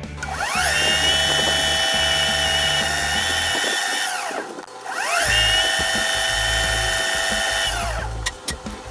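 Lathe spinning the aluminum part up to high speed with a high whine, running steadily, then winding down with a falling pitch. It happens twice, the second spin-up about five seconds in, while the spinning part is sanded smooth.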